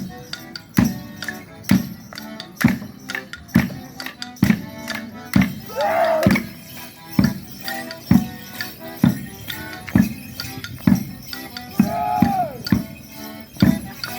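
Folk dance tune with tambourine over a strong, even beat a little faster than once a second. Two loud whooping calls cut in, one about six seconds in and one near the end.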